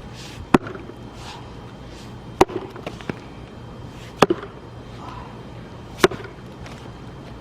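Axe striking a log of firewood four times, about every two seconds, each a sharp, short knock, some followed by a smaller knock.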